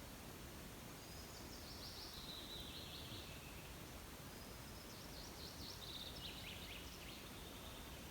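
A songbird singing two phrases of quick notes, each falling in pitch and lasting about two and a half seconds, over a faint steady outdoor hiss.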